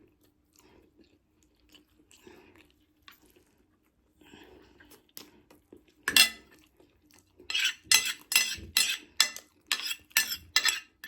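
Cutlery scraping and clinking against a dish of food. It is faint with a few small clicks at first, then one loud strike about six seconds in, then a quick run of scrapes, about three a second, near the end.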